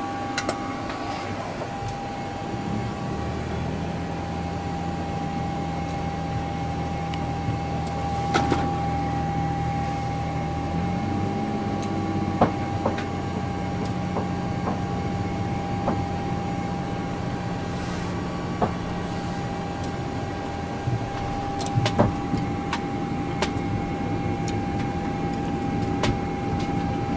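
Cockpit noise of an airliner under tow: a steady whine from the aircraft's running systems over a low drone that comes in about three seconds in and changes pitch about eleven seconds in, with scattered clicks and rattles.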